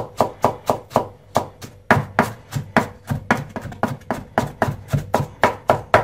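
Kitchen knife chopping across julienned onion strips on a cutting board, a steady run of quick, even strokes at about three to four a second, dicing the onion fine.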